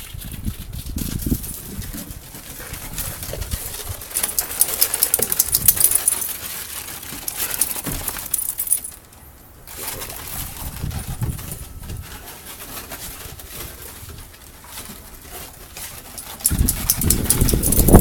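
Storm ice crunching and clinking in quick sharp clicks and tinkles as dogs run, slide and bite at it, busiest in the middle. A low rumble of wind on the microphone comes in near the end.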